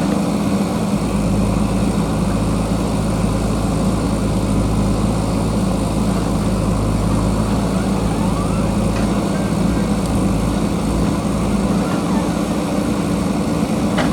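Diesel engine of a JCB backhoe loader running steadily, its engine note holding even, with faint brief whines from the machine's working.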